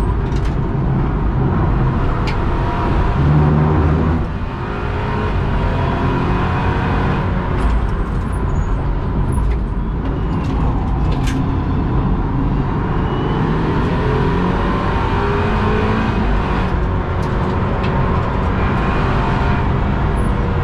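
BMW 328i F30's turbocharged four-cylinder engine running hard at track speed, heard from inside the roll-caged cabin together with heavy road and tyre noise. The sound grows briefly louder about three to four seconds in, then drops suddenly.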